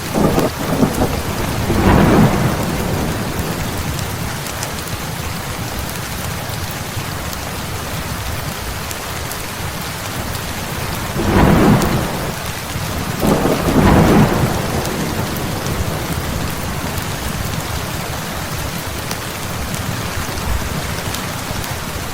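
Heavy rain falling steadily, with rolls of thunder swelling up and fading several times: right at the start, about two seconds in, and twice between about eleven and fourteen seconds in.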